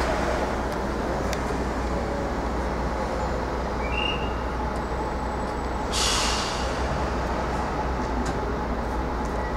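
Steady low hum and rumble from a Dutch Plan V electric multiple unit at the platform, with a short burst of air hiss about six seconds in and a brief high chirp shortly before it.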